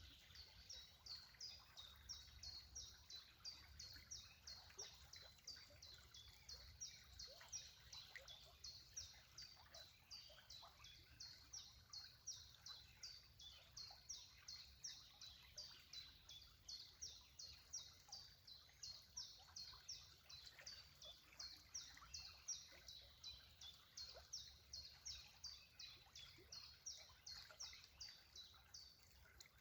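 A bird calling over and over: a steady series of short, high chirps, each a quick downward sweep, about three a second.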